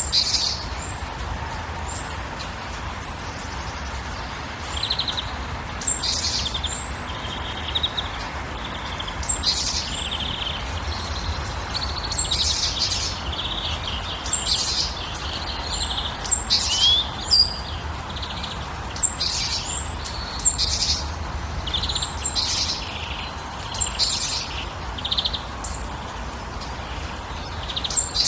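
Birds chirping and calling, short high calls repeated every second or so, over a steady background noise.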